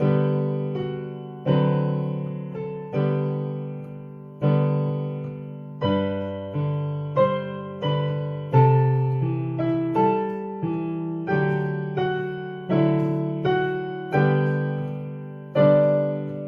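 Piano playing a hymn accompaniment in block chords, one chord struck about every one and a half seconds and left to fade, with a few quicker notes in between.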